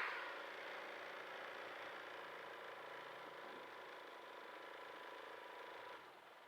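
Vehicle engine idling in traffic: a steady hum with a faint whine that drops off about six seconds in.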